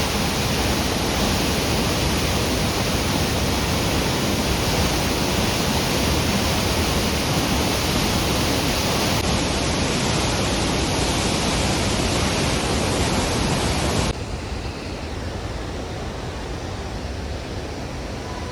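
Steady rush of a large waterfall's falling water, with no separate events. About fourteen seconds in it cuts abruptly to a quieter, similar rush.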